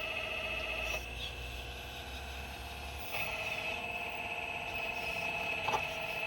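4200XL excavator working, a steady high whine over a lower hum that eases off about a second in and comes back stronger about three seconds in, as the machine's load changes; a short knock near the end.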